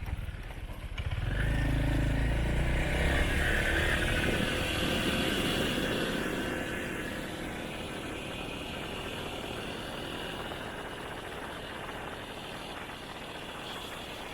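Motorcycle engine running on the move, with road and wind noise. It swells and grows louder about a second in, stays strong for several seconds, then eases into a steady drone.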